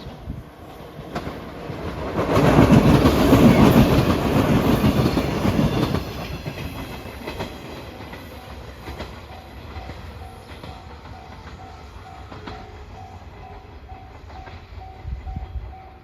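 A train passing at close range, loudest from about two to six seconds in, with wheels clacking over the rail joints. It then fades while the level-crossing warning bell keeps ringing in quick, even repeats.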